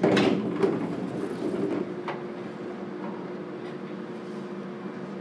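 Inside a JR Kyushu 415 series 1500 electric train car: a sudden loud rush of noise with a couple of sharp knocks right at the start, fading over about two seconds into a steady low hum.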